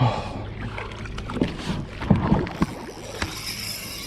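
Knocks and thumps on a fishing kayak, a handful of irregular ones clustered in the middle, over a steady low background.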